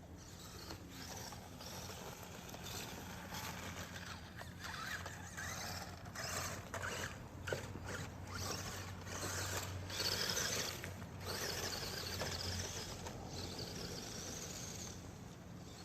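WLtoys 10428-A radio-controlled crawler's small electric motor and gearbox whining in repeated short runs, the pitch rising and falling as the throttle is worked while it crawls.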